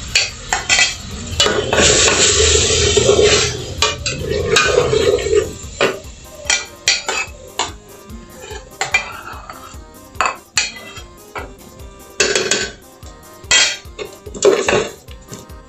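A utensil stirring and scraping in a cooking pan, clinking repeatedly against the pan, while bell pepper, onion and chilli are sautéed in lard. The clinks are irregular, busiest in the first five seconds or so.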